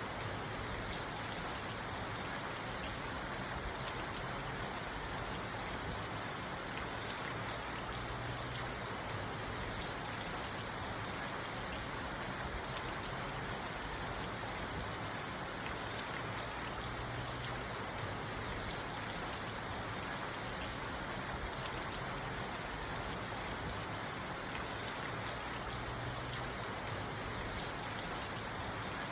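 Steady rain falling on a parked car, heard from inside the cabin: an even hiss of rain with fine drop ticks on the roof and glass.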